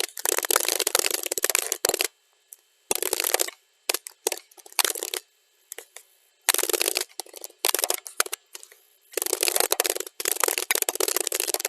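Fast typing on a computer keyboard, played at double speed: dense runs of key clicks at the start and near the end, with a stretch in the middle of only short bursts and single keystrokes between pauses.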